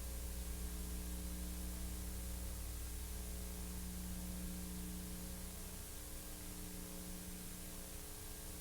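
Steady hiss with a low electrical hum and a few faint steady tones, and no other sound. This is the empty noise floor of an old film transfer that has no soundtrack. The lowest hum fades a little about two-thirds of the way in.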